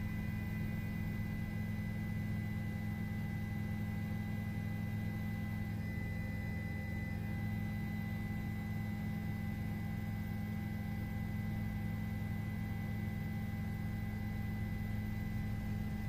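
A steady hum made up of several constant tones, unchanging throughout, with no other sounds over it.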